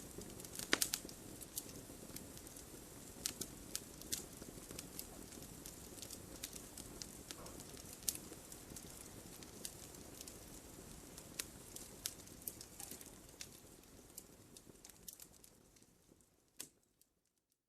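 Wood logs burning in a fireplace: irregular sharp crackles and pops over a soft steady rustle of flame. The sound fades away near the end.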